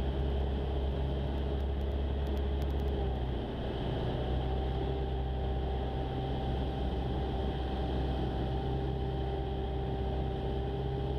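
Jabiru light aircraft's engine and propeller running steadily, heard inside the cabin, with a slight change in tone about three and a half seconds in.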